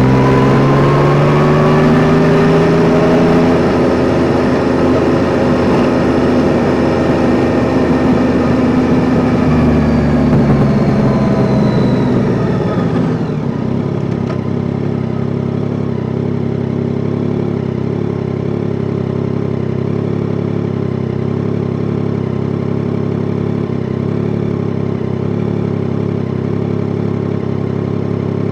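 Yamaha Tracer 9 GT's three-cylinder engine pulling up through the revs, then dropping off about halfway through and settling into a steady idle.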